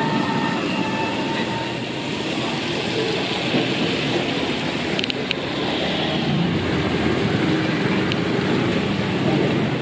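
Busy fish-market floor with turret trucks driving through: a steady mix of their motors and tyres, with a couple of sharp clicks about five seconds in.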